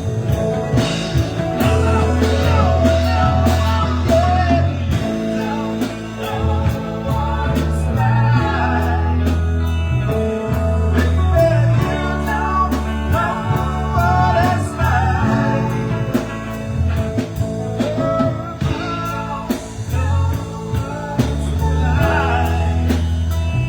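Live band music with bass, drums and a wavering melodic lead line, no sung words.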